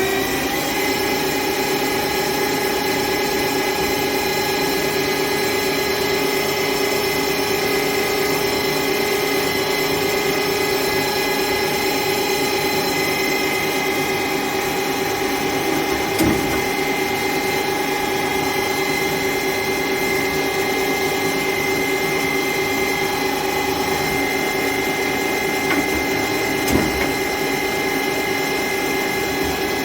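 Johnford TC-20 CNC lathe running, its spindle reaching full speed about half a second in and then holding a steady whine of several tones. Two brief knocks come about sixteen and twenty-seven seconds in.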